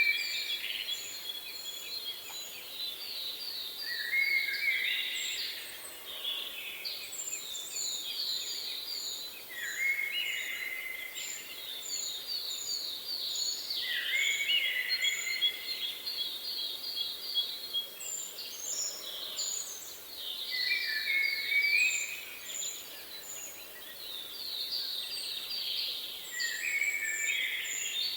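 Songbirds singing in repeated phrases every few seconds. Each phrase is a fast trill that drops in pitch at the end. Behind it runs a steady series of thin, high, evenly spaced notes, over a faint steady hiss.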